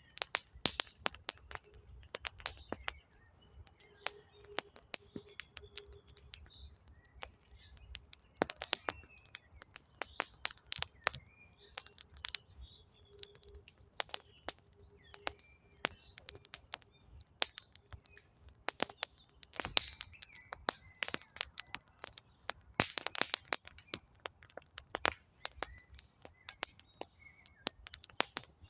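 Wood campfire crackling, with a dense, irregular run of sharp pops and snaps. Faint birdsong chirps along underneath.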